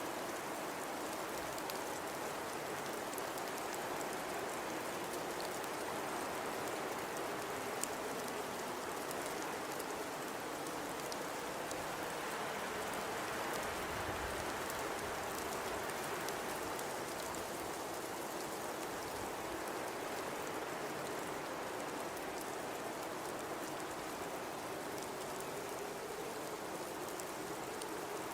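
Blizzard ambience: a steady rush of high wind and blowing snow, swelling slightly about halfway through, with a few faint scattered ticks.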